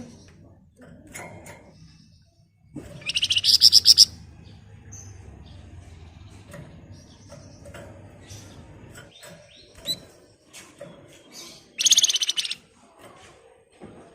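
Flamboyan songbird singing in two loud bursts of rapid, closely packed rattling trills (ngebren), about three seconds in and again near the end, with scattered short chirps between.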